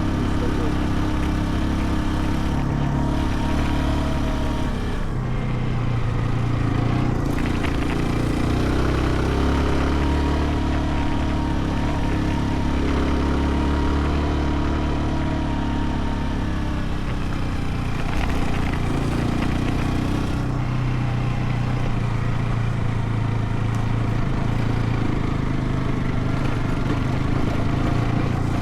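Motorcycle engine running under way, its note rising and falling slowly over a steady rush of noise.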